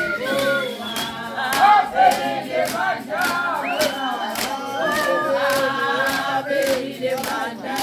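A group of voices singing together in harmony, cut through by sharp beats about twice a second.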